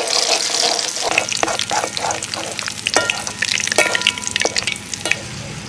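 Chopped food sizzling in hot oil in a metal wok, stirred with a metal spoon that scrapes and clinks against the pan; a few of the clinks ring briefly around the middle.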